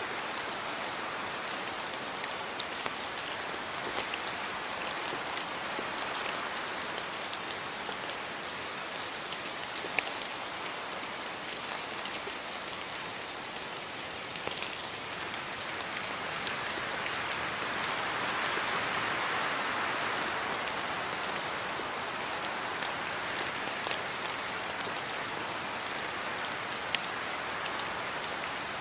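Steady rain falling and pattering on surfaces, with a few sharper single drop hits standing out and a slight swell in intensity about two-thirds of the way through.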